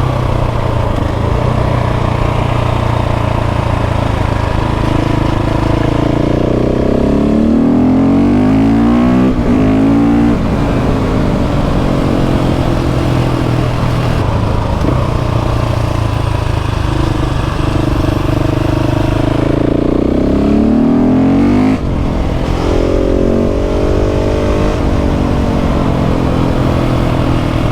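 KTM 690 SMC R's single-cylinder LC4 engine running on the move in a high gear at part throttle. Its note climbs and falls back twice, around eight and twenty seconds in, with a brief break in the sound near twenty-two seconds.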